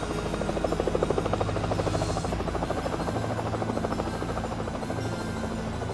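Helicopter rotor chopping in a fast, steady beat over a low, steady engine drone.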